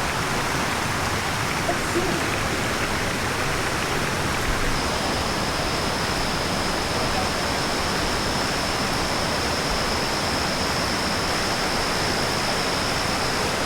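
Creek water rushing steadily, an even hiss of flowing water. A thin, steady high-pitched tone joins about five seconds in and holds.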